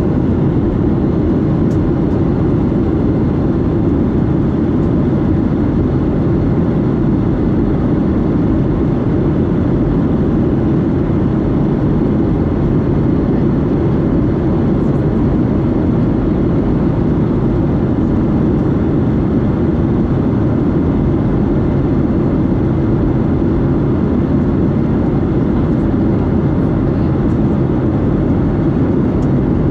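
Steady cabin noise of a Boeing 737-8 heard from a seat near its CFM LEAP-1B engine: an even, loud rumble of engine and airflow with no change in pitch or level.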